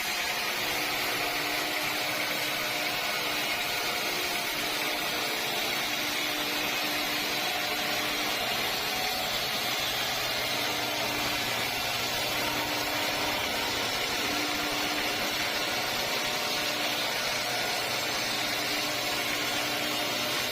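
Sawmill machinery running steadily: a continuous hiss with a faint low hum, unchanging throughout.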